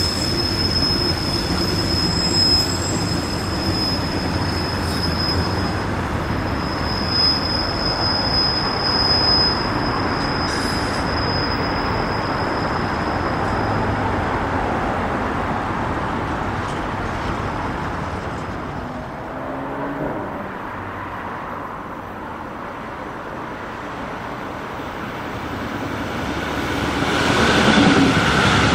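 Freight train of covered wagons rolling past on the line, a steady rumble with a high, held wheel squeal that stops about halfway through as the last wagons go by. The rumble then fades, and near the end another train's noise swells up.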